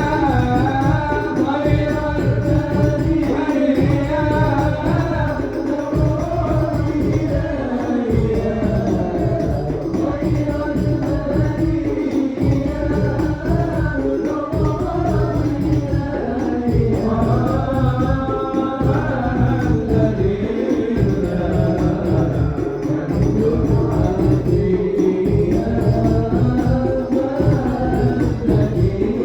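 A male voice sings a melismatic Arabic sholawat (devotional song praising the Prophet) over a steady, driving beat of hadrah frame drums with jingles.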